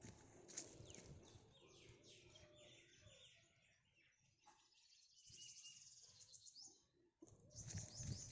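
Faint chirping of small birds: many short, quick high calls overlapping, with a gap about five seconds in.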